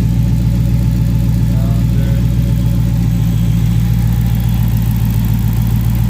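2009 Dodge Challenger SRT8's 6.1-litre Hemi V8 idling steadily while warming up, through an aftermarket Corsa exhaust.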